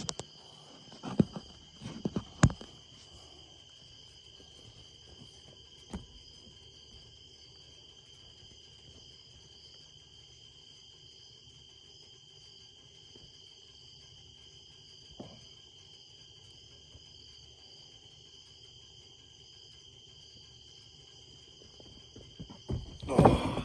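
Steady high-pitched chorus of night insects. A few faint knocks come early and about midway, and a louder burst of thumping and scuffling near the end as the dead hog is heaved and loaded.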